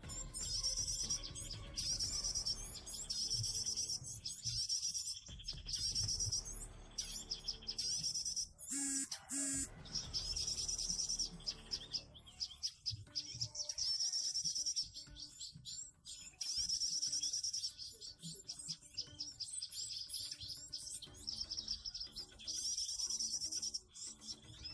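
Small bird singing a high, rapid trilling phrase over and over, each about a second long with short gaps, with one different louder call about nine seconds in.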